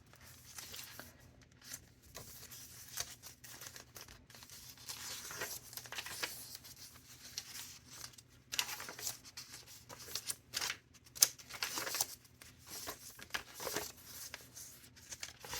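Paper pages of a thick handmade junk journal being turned one after another, each turn a brief rustling swish at an uneven pace, a few of them louder around the middle and later part.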